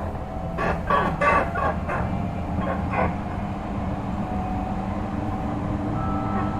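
Odakyu 3000 series electric train running, its Mitsubishi IGBT VVVF inverter and totally enclosed traction motors giving a steady hum. A tone slowly rises in pitch, and a second higher tone joins near the end. Through the first three seconds a quick series of short, sharp sounds sits over the running noise.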